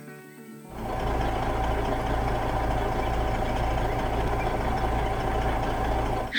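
A heavy vehicle engine running steadily with a deep rumble, coming in under a second in after faint music tones.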